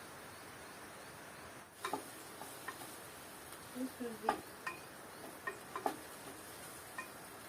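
Scattered light clicks and taps of cooking utensils and dishes being handled, with a short pitched squeak about four seconds in, over a faint steady hiss.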